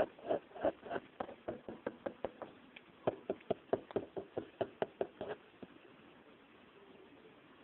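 Quick series of knocks on a box, about four or five a second, stopping abruptly about five seconds in.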